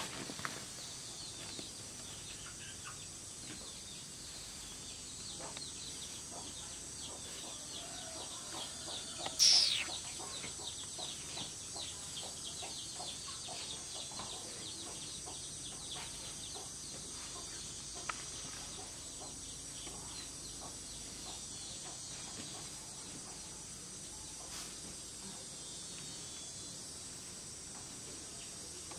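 Bird calls over a steady high hiss: one loud, high call falling in pitch about nine and a half seconds in, then a run of quick, faint chirps.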